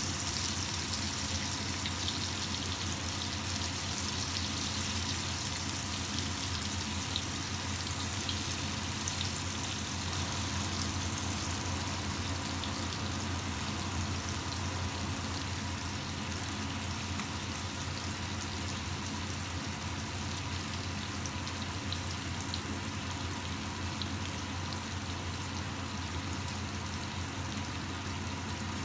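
Chunks of tandoori-marinated chicken breast frying in oil in a non-stick wok: a steady sizzling hiss with fine crackle. A constant low hum runs underneath.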